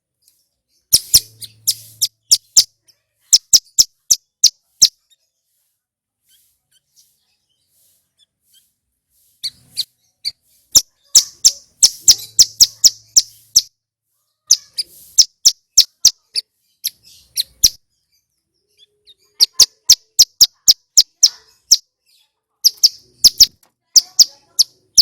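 Male ciblek gunung (mountain prinia) singing: bursts of sharp, rapidly repeated high chirping notes, each burst lasting one to two seconds, with pauses between them and a longer silence about a third of the way in.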